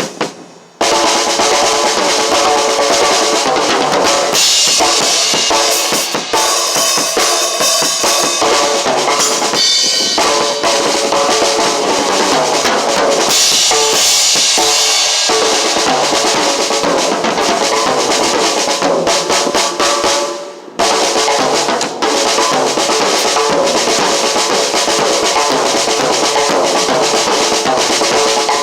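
Drum kit played continuously, with kick drum, snare and rimshots, starting just under a second in and breaking off briefly about three-quarters of the way through.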